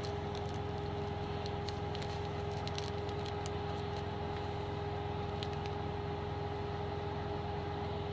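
Steady drone of a semi truck's auxiliary power unit running, heard inside the cab as an even hum, with a few faint small clicks over it.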